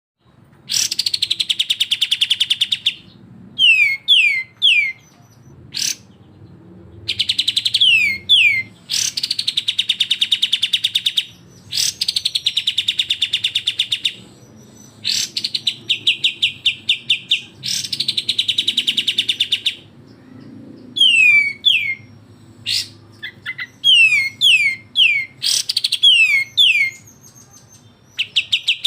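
Cucak jenggot and kapas tembak songbirds calling: fast rattling trills, each about two to three seconds long, alternating with quick runs of three to five sharp down-slurred notes.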